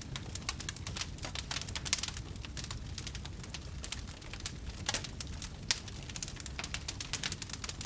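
Wood fire crackling and popping: many quick irregular snaps over a steady low rumble of the burning fire.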